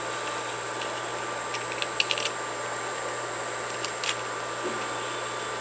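A few light clicks and taps from handling the power cord's wires and soldering tools, over a steady electrical hum and hiss.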